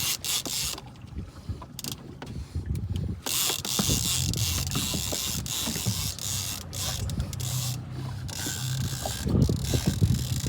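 Fishing reel being cranked hard against a big barracuda, its gears and ratchet ticking rapidly. A steady low hum and a hiss join in about three seconds in.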